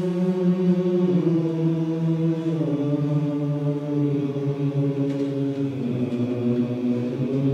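Choir singing a held vocal warm-up chord in harmony, the pitch stepping down a couple of times as the exercise is repeated a half step lower.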